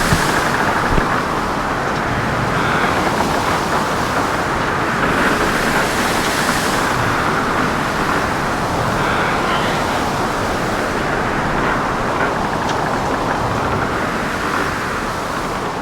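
Wind and rushing sea water around a sailing catamaran running fast in a storm: a steady, loud rush of noise that swells and eases every few seconds.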